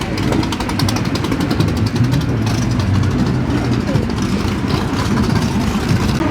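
A car engine running loudly and steadily.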